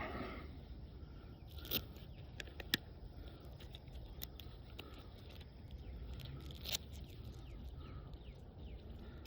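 Scattered scraping, rustling and a few sharp clicks of a beekeeping suit being taken off, over a steady low rumble.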